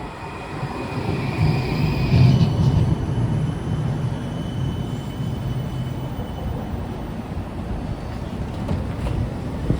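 Streetcar running: a steady low rumble with a faint high electric whine that changes pitch about two seconds in and fades out past the middle.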